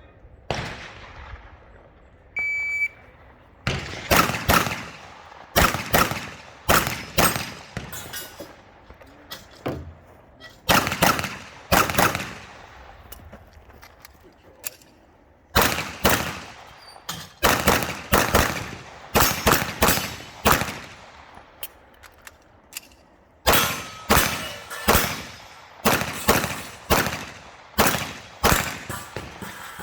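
Electronic shot-timer start beep about two and a half seconds in, followed by a practical-shooting pistol course of fire: dozens of pistol shots, mostly in quick pairs and short strings, with pauses between groups as the shooter moves and reloads.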